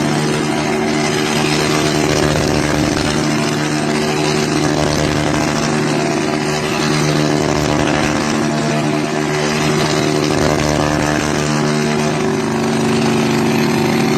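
Motorcycle engine running at steady revs, its pitch held level without rising or falling.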